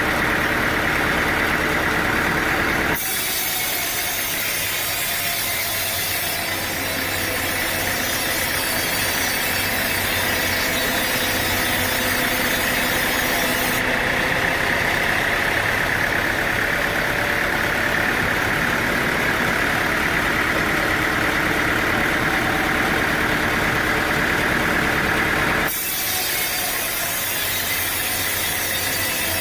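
Sawmill machinery running steadily while a saw cuts through a teak log. The sound changes abruptly about three seconds in and again near the end, as the view cuts between shots.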